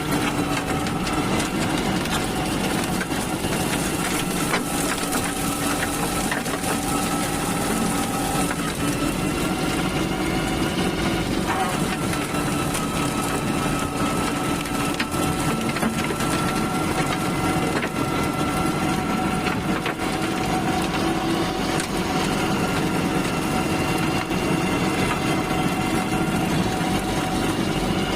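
Tractor engine running steadily under load while a tractor-mounted brush cutter shreds scrub, with crackling and snapping of brush and wood.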